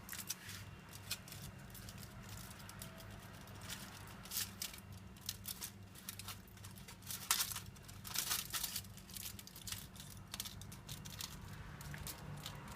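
Intermittent crinkling and rustling as material is picked and peeled off a freshly unmoulded plaster volcano model, over a low steady hum.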